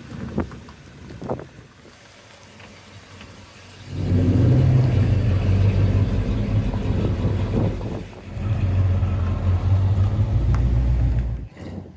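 A car engine running loudly close by, coming in about four seconds in, with a brief drop near the middle before it picks up again and cuts off just before the end. Two short knocks sound in the first second or so.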